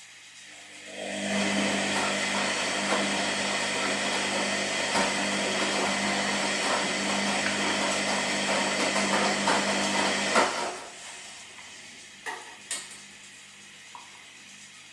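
Washing machine drum turning in a wash cycle: the motor hums and the churning load of water and clothes starts about a second in, runs for about nine seconds and stops. A couple of sharp clicks follow from the machine, over a low background hum.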